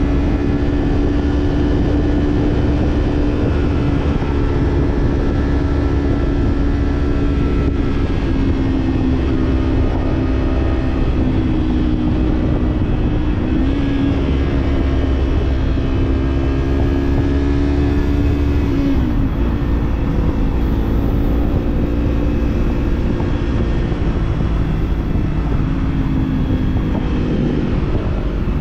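Kawasaki parallel-twin motorcycle engine with an aftermarket slip-on exhaust, riding at fairly steady revs under constant wind rumble on the microphone. About two-thirds of the way in, the revs drop briefly and pick up again.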